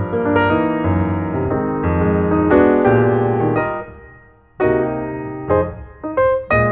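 Piano music, notes played in quick succession, with a brief pause about four seconds in before the playing resumes.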